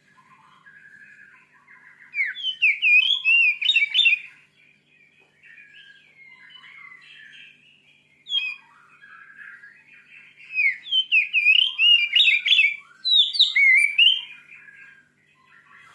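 Oriental magpie-robin singing: rapid, varied whistled phrases that come in two loud runs, one of about two seconds and a longer one later, with softer twittering between.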